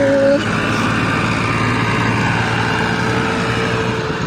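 Tractor engine running steadily, with a steady whine over it for the last second or so.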